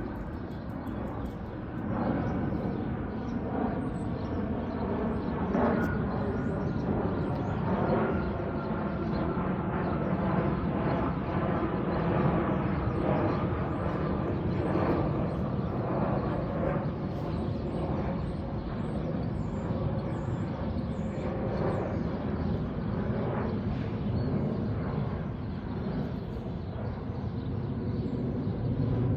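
Jet engine noise from an Airbus A321neo in flight, its Pratt & Whitney PW1100G geared turbofans heard from the ground as a steady low drone.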